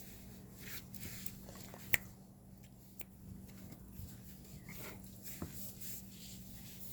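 Faint scattered clicks and rustles over a steady low hum, with one sharp click about two seconds in.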